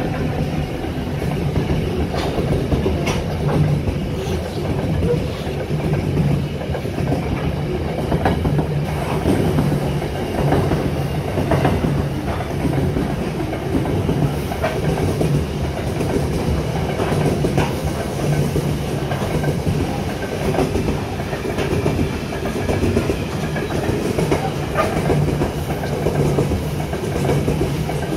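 Freight train's covered hopper wagons rolling past close by, wheels clattering over the rail joints in a steady clickety-clack.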